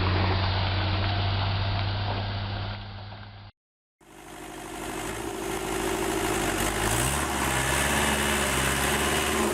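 Heavy diesel engine running steadily, fading out and cut off about a third of the way in. After a short gap, another heavy diesel engine fades in, and its revs rise about two-thirds of the way through.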